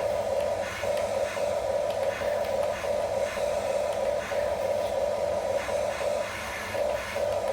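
Small electric gear motors of a Huina mini RC construction toy whining as they run, the whine cutting out briefly and starting again every second or so as the controls are worked.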